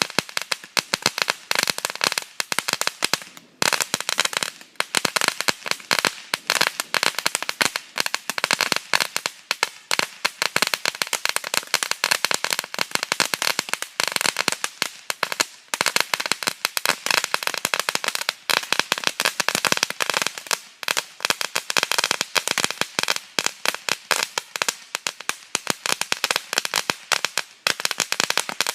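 Crackle firework burning, giving off a dense, continuous stream of rapid sharp crackling snaps.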